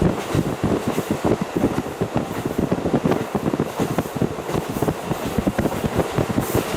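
KiHa 40 diesel railcar running along the line, heard through a fully open window: a loud, steady rumble of wheels on rail mixed with the engine.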